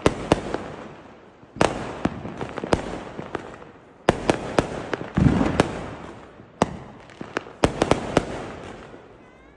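Firecrackers and fireworks going off: sharp bangs in clusters every second or so, each followed by a fading crackle and echo. A faint rising whistle comes near the end.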